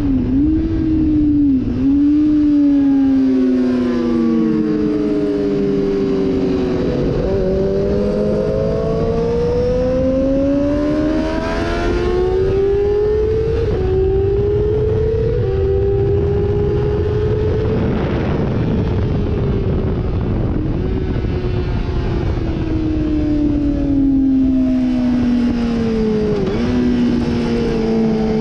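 Sportbike engine at speed on a race track, the revs climbing through the gears and falling off under braking, with short breaks in the note at each gear change.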